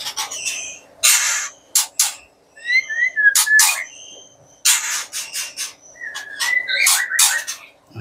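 White-rumped shamas giving repeated harsh squawks, with two stretches of short chirping calls, one about three seconds in and one near the end.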